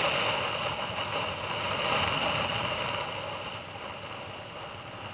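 Pit bike engine running steadily, growing quieter over the last couple of seconds.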